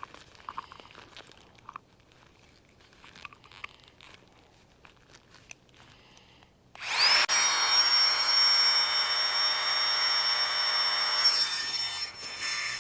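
Faint rustling and clicks, then a small motor starts about two-thirds of the way in with a quick rising whine and runs steadily for about five seconds before dropping away near the end.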